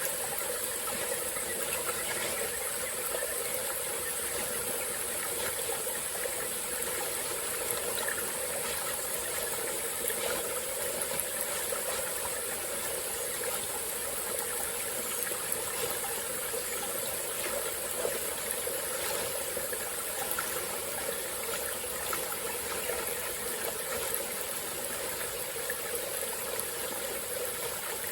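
Small forest stream flowing, an even, continuous rush of water with a steady high hiss above it.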